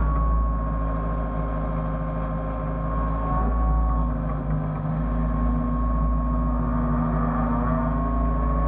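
Hyundai excavator's diesel engine running steadily with a steady high whine over its low hum.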